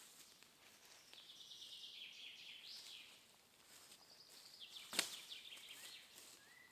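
Faint forest birdsong: a songbird sings a rapid trill of high notes that steps down in pitch and ends in a short flourish, with fainter calls following. About five seconds in there is one sharp click, the loudest sound.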